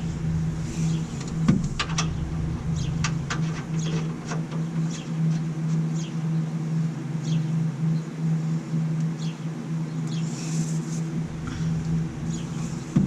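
Scattered clicks and light knocks of a drain hose and tools being handled, the busiest stretch in the first few seconds, over a steady low hum that pulses slightly. There is a sharper knock near the end.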